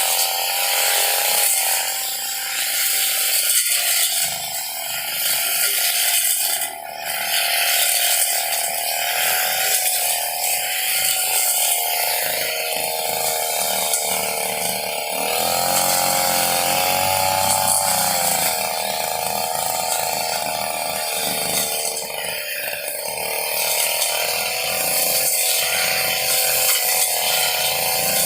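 Small two-stroke engine of a brush cutter (grass-cutting machine) running at speed. Its pitch drifts up and down with the throttle, over a steady harsh hiss.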